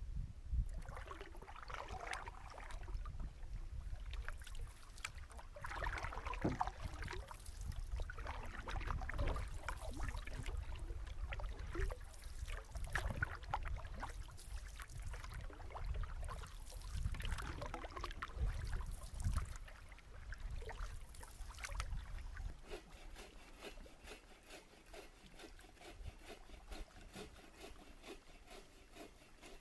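Canoe paddle strokes: water swishing past the paddle in a slow rhythm, about one stroke every four seconds. A low rumble underneath fades out about three-quarters of the way through, leaving the strokes fainter.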